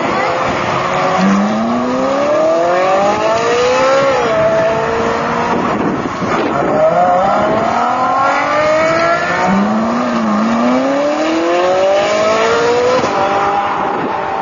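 Ferrari 458 Italia V8 engines accelerating hard out of a standstill, one car after another. Each run is a rising engine note broken by quick upshifts, with several such runs in a row.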